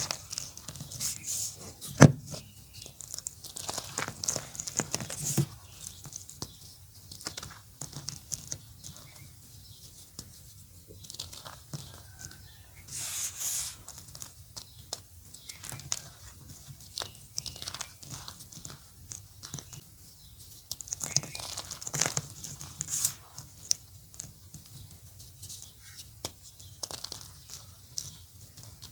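Orange gym chalk being crumbled by hand: irregular crackles and soft crunches as the chalk breaks apart, with one sharp crack about two seconds in and denser bursts of crumbling later on.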